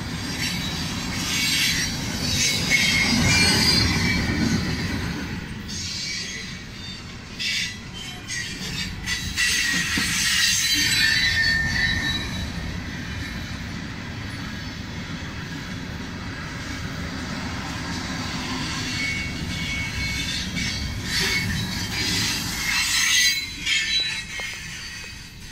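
Freight cars of a CSX rock train rolling past at a grade crossing: steady rumble and clatter of steel wheels on the rails, with high-pitched wheel squeal rising and fading several times. The sound drops away near the end.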